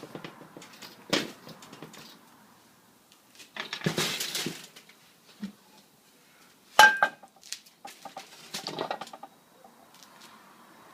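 Metal cookware and utensils clattering around a wok in separate knocks and scrapes. A short hissing rush comes a few seconds in, and a sharp ringing metal clang follows about seven seconds in.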